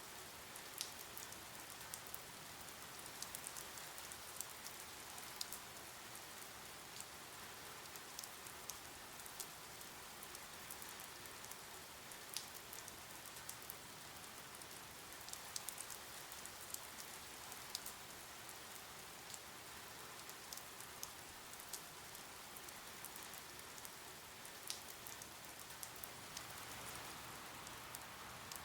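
Steady rain: a soft, even hiss with scattered sharp drip ticks at irregular moments.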